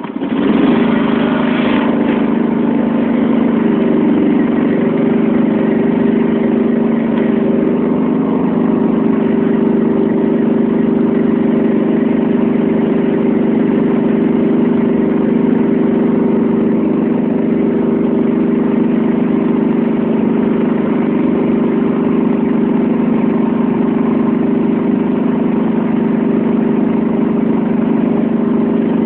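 John Deere 325 lawn tractor engine catching on a cold restart, its speed rising briefly, then running steadily at an even speed for the rest of the time. The engine is not yet warmed up.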